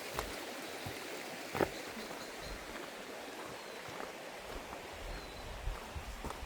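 Steady rushing of a small stream running over stones, with a few short knocks, the sharpest about a second and a half in.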